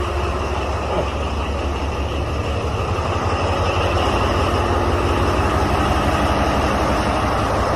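Large mining haul truck's diesel engine idling, a steady low rumble and hum that grows slightly louder partway through.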